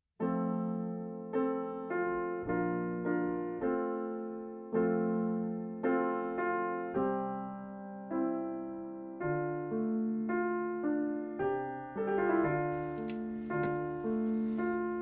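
Gentle background piano music, notes and chords struck and left to fade, starting just after the beginning. A faint hiss joins in under it near the end.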